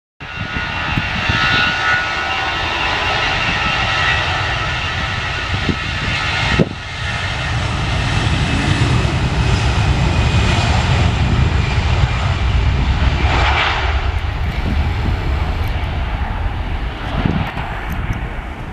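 Airliner engines running loudly: a deep rumble with a steady whine over it, broken by a sudden cut about six and a half seconds in.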